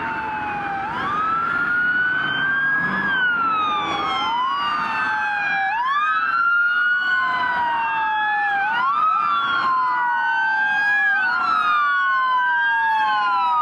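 Sirens of police cars responding code 3, at least two wailing at once out of step, each sweeping up in pitch and sliding back down every two to three seconds.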